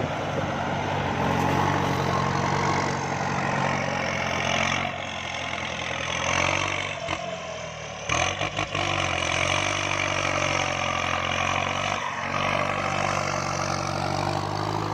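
Kubota MU5702 tractor's diesel engine running steadily under load while plowing a wet rice paddy, with a brief dip and uneven stretch about seven to nine seconds in.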